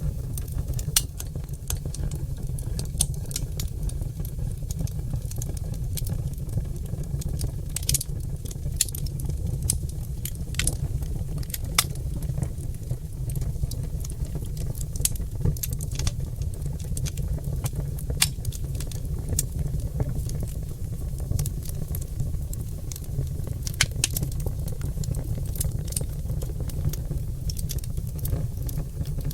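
Oak logs burning in a fireplace: a steady low rumble with frequent sharp crackles and pops at irregular intervals.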